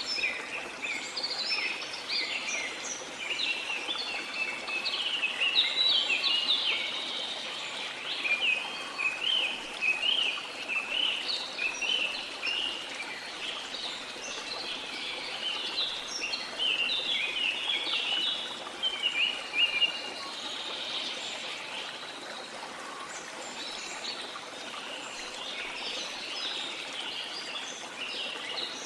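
Many birds chirping and calling over the steady rush of a waterfall. The chirping is dense at first, thins out for a few seconds about two-thirds of the way through, then picks up again near the end.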